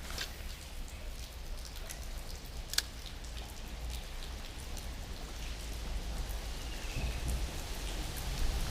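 Steady rain, with scattered drops ticking close by, one sharper tick about three seconds in, over a low rumble that grows louder near the end.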